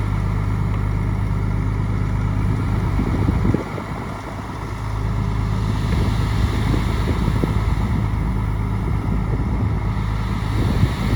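Bulldozer's diesel engine running steadily. It drops off about three and a half seconds in, then builds back up rougher, with rattling under the engine note.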